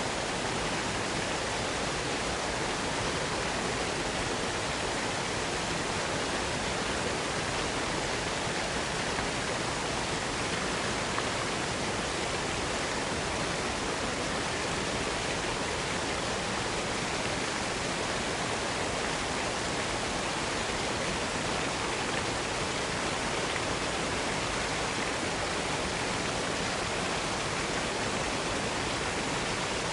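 Waterfall pouring steadily: an even, unbroken rushing hiss.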